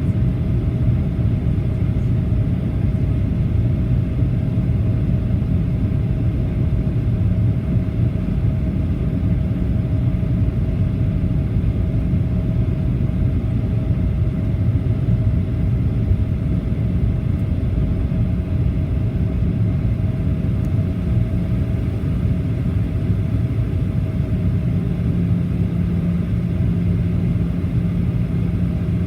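Cabin noise of a Boeing 737-800 in flight: the steady low rumble of its CFM56 engines and airflow. A faint hum fades out about two thirds of the way in as a lower hum takes over, a change in engine note.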